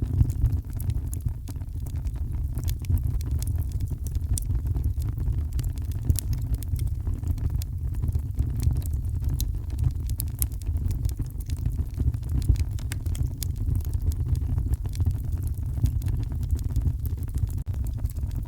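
Fireplace crackling with frequent, irregular sharp pops over a steady deep rumble of heavy rain.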